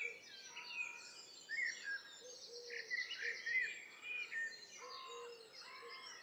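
Songbirds singing and chirping, several short calls overlapping, with a fast, buzzy trill about three seconds in.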